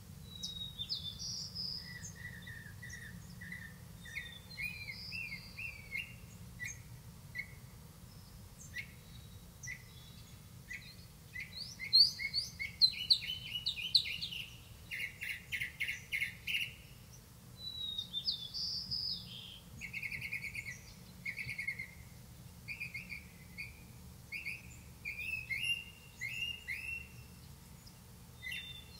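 Songbirds chirping and calling: many short, irregular chirps and quick trills, busiest and loudest about halfway through.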